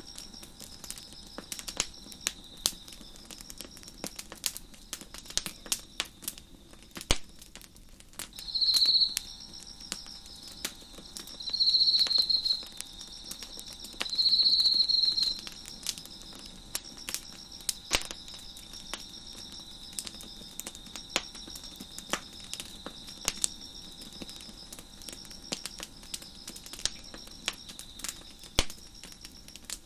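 Wood fire crackling with frequent sharp pops, over crickets chirping steadily in a high pulsing trill. Three louder cricket trills, each a second or so long, stand out about 9, 12 and 15 seconds in.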